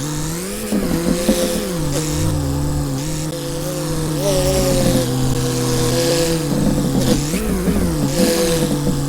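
Tractor diesel engine running steadily under load, its pitch rising briefly a few times as it is revved.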